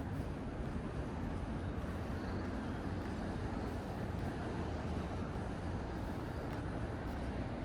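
Steady low rumble of street ambience with distant road traffic and no distinct events.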